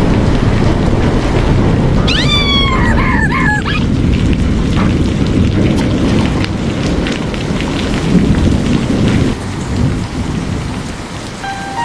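Heavy rain with low rolling thunder, a storm soundtrack. About two seconds in comes a short run of high, falling cries from a small animal.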